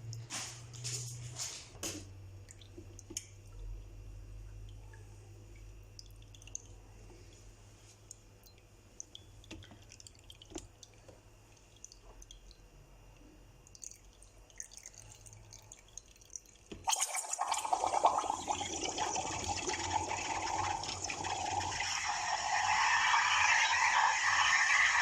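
Espresso machine humming low, with faint drips and clicks. About 17 s in, its steam wand suddenly starts a loud hiss that grows stronger, as milk is frothed for a cappuccino.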